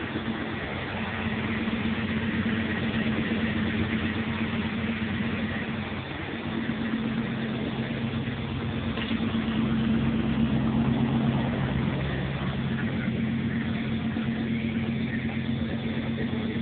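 1986 GMC pickup's engine running at a steady speed, its level dipping briefly about six seconds in and swelling around ten seconds.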